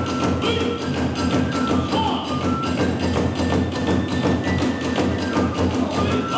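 Kagura accompaniment playing: rapid, driving drum strokes with clashing hand cymbals and a bamboo flute sounding short held high notes.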